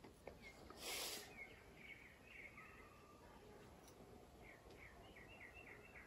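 Faint birdsong: quick series of short chirping notes, once about two seconds in and again near the end, over a low steady background hiss. A brief burst of noise about a second in is the loudest sound.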